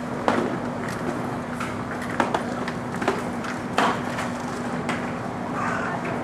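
Busy shopping-street ambience: a steady low hum with about six sharp clicks and knocks scattered through it.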